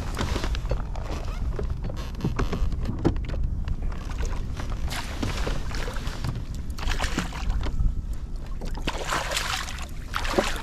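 Low wind rumble on the microphone aboard a kayak, with irregular splashing and rustling noises coming and going, loudest near the end.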